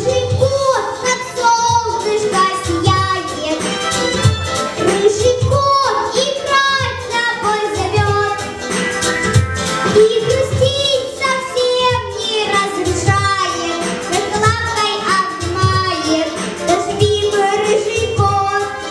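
A young girl singing a song solo over a recorded backing track with a steady beat.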